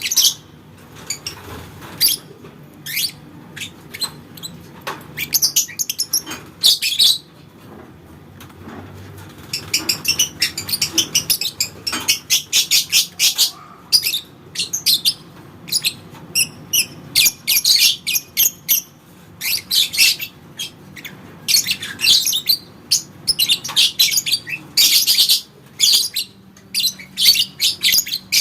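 Lovebird chattering in rapid runs of high, sharp chirps, some runs lasting several seconds, with short single chirps in between: the long chattering trill (ngekek panjang) valued in lovebird song contests.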